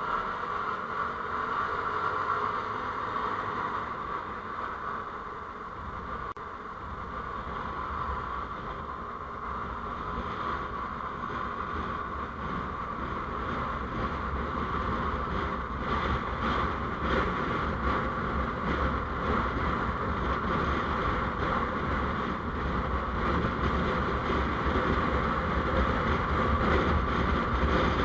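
Steady noise of a vehicle travelling on the road. A low rumble grows stronger after about six seconds, and the noise gets gradually louder.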